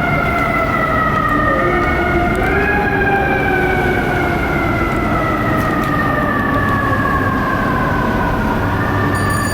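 Fire engine siren winding slowly down in pitch, pushed back up three times, over the rumble of traffic. A thin high-pitched squeal comes in near the end.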